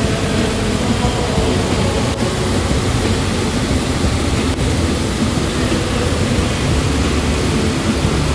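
Waterfall rushing, a steady loud roar of falling water with no breaks.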